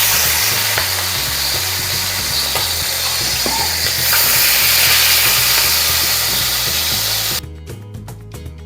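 Marinated chicken pieces sizzling loudly as they fry in a hot pan, cutting off suddenly near the end. Background music plays underneath.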